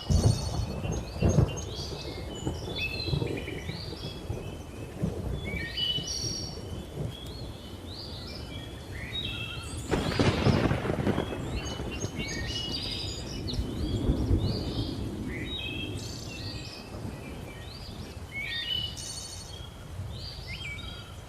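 Thunder rumbling, with sharp cracks right at the start and a louder peal about ten seconds in. Under it runs a busy chorus of birds chirping and calling.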